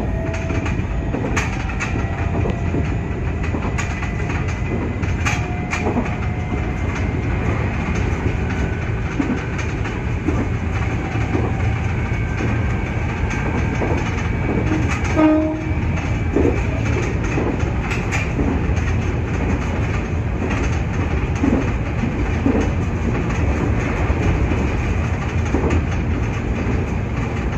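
Nankai 8300 series electric train running at speed, heard from inside the front car: a steady rumble of wheels on rail, with scattered rail-joint clicks and a brief tone about halfway through.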